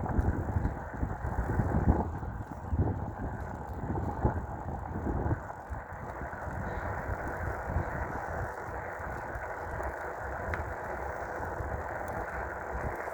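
Riding noise from a dual-motor electric bike on the road, wind buffeting the microphone over a rush of tyre and road noise. It is gusty for the first five seconds or so, then settles to a steadier rush.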